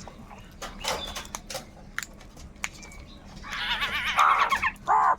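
Crows cawing: a few scattered calls, then a loud run of harsh, overlapping caws about three and a half seconds in, and one more caw near the end.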